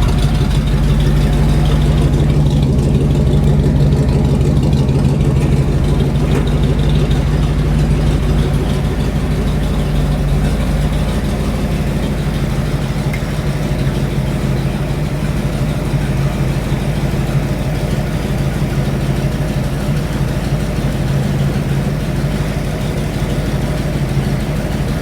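Rat rod's engine idling steadily on its first run, its ignition timing just set to about 10 degrees at idle.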